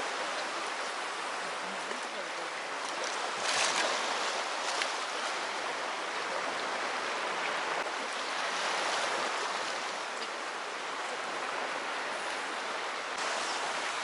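Steady rush of moving water at the shoreline, with a louder surge about three and a half seconds in.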